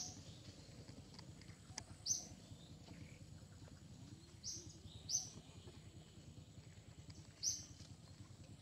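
A bird's short, high chirps, five of them a couple of seconds apart, over a low, steady outdoor hum.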